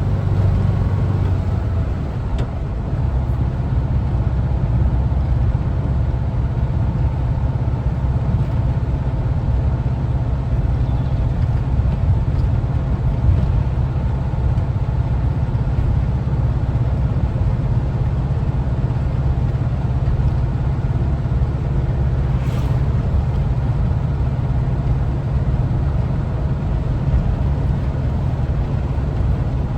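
1974 Volkswagen Westfalia camper's air-cooled Type 4 flat-four engine running under way, heard with road noise as a steady low rumble. The loudness dips briefly about two seconds in.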